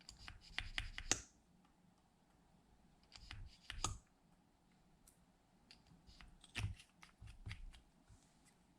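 Slime being squished and kneaded by hand, giving three bursts of small wet clicks and pops with quiet gaps between.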